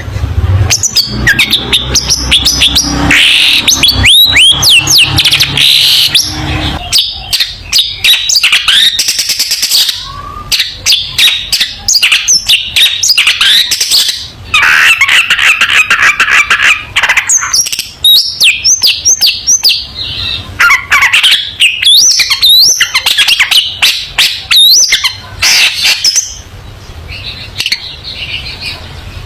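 Long-tailed shrike singing without a break: a rapid, varied stream of chirps, short whistled glides up and down, and harsh buzzy phrases, with a sustained buzzy passage about halfway through.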